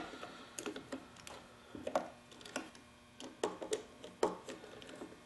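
Scattered light clicks and taps of a tool on the Husqvarna 150BT backpack blower as its crankcase screws are backed out, irregular and with no steady rhythm.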